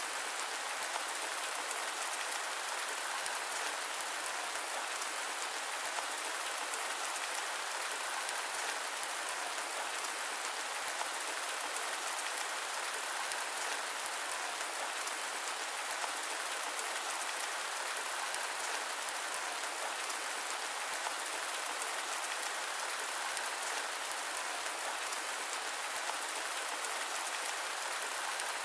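Steady rain falling, an even, unbroken hiss with a fine patter of drops and no deep rumble.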